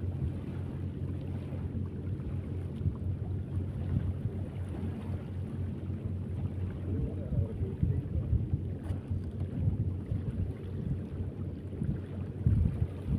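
Wind buffeting the microphone: a continuous, gusty low rumble.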